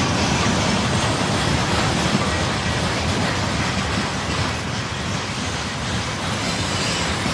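Freight train wagons, open gondolas and then tank cars, rolling past: a steady noise of steel wheels running on the rails.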